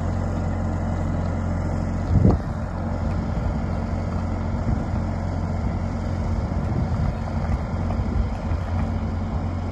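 Engine running steadily at an even speed, with a single low thump a little over two seconds in.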